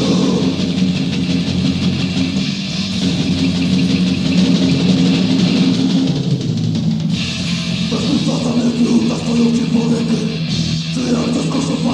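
Death metal from a 1990 demo recording: heavily distorted electric guitar riffing over a drum kit.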